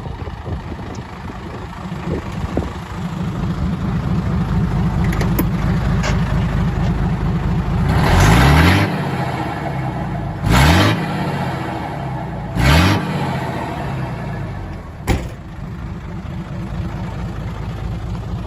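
Hino Ranger dump truck's J08C inline-six diesel engine idling, then revved three times in quick succession about two seconds apart, each rev rising and falling in pitch. There is a sharp click a little later.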